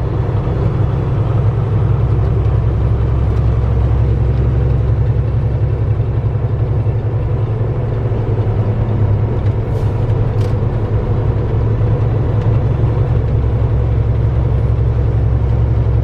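Steady low drone of a Kenworth T660 semi truck's diesel engine and road noise heard inside the cab while cruising.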